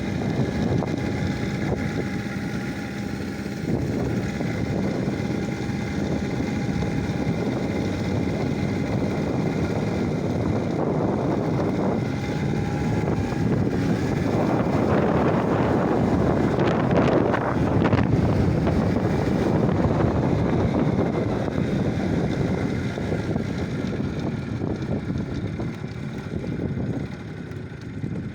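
A motor running steadily, mixed with wind buffeting the microphone; it grows louder for a few seconds in the middle and eases off near the end.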